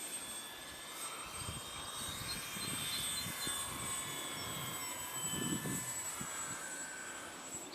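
Twin electric motors and propellers of a FlightLine F7F Tigercat RC warbird in flight, a whine that shifts slowly in pitch as the plane manoeuvres.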